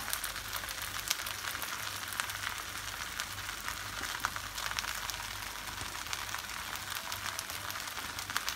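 Fried noodles sizzling steadily in a hot pan on the stove, with scattered small crackles.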